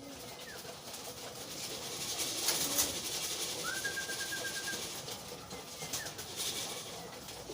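Racing pigeons cooing in a loft. A short burst of rustling comes a little after two seconds in, and a quick trill of repeated high notes sounds near the middle.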